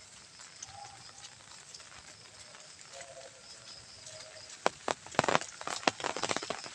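Rain falling steadily, with faint short animal calls in the background. From about two-thirds of the way in, a quick irregular run of sharp taps, like heavy raindrops hitting an umbrella.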